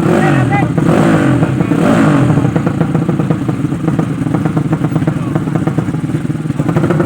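Yamaha 5TP motorcycle engine running loud and steady, with rapid even firing pulses.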